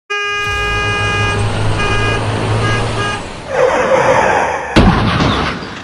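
Truck horn sounding one long blast over engine rumble, then three short toots, followed by a rushing noise and a single sharp bang about five seconds in.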